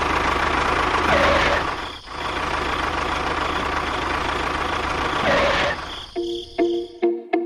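Engine running steadily, dipping briefly about two seconds in. Near the end it stops and music with evenly repeating plucked notes begins.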